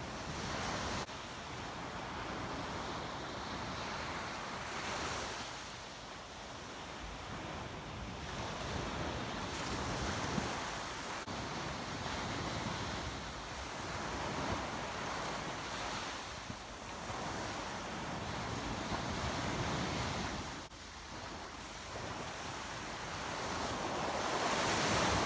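Surf breaking and washing up a beach, swelling and easing every few seconds, with wind buffeting the microphone.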